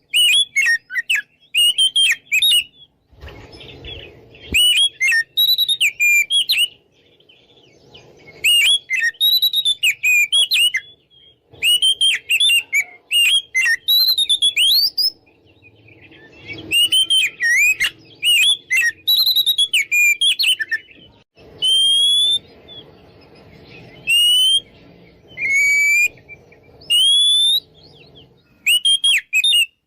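Oriental magpie-robin singing its full, loud song in bursts of rapid, varied whistled phrases separated by short pauses, with a run of separate rising whistles near the end.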